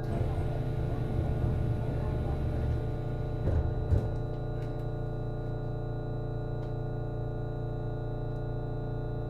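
Steady multi-tone hum of the HB-E210 hybrid railcar's onboard power equipment (diesel engine, generator and inverters), unchanging in pitch. A rush of rougher noise runs through the first three seconds, and a single loud clunk comes just before four seconds in.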